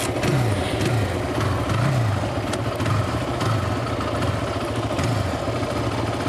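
Single-cylinder 450cc Honda sport quad engine running, revved up and let fall back several times.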